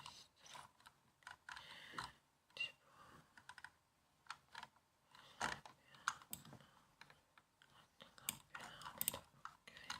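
Typing on a laptop keyboard: quiet, irregular key clicks in uneven runs with short pauses between them.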